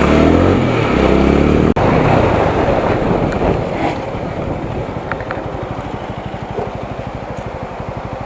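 Single-cylinder 200 cc motorcycle engine on the move, its pitch shifting with the revs for the first couple of seconds. It then drops to low revs, running as an even string of firing pulses that slowly fades.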